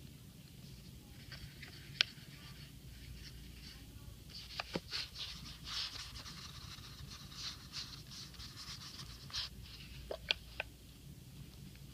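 Paintbrush stroking and dabbing on paper: soft, scratchy, on-and-off brushing, busiest from about four to ten seconds in, with a few light taps.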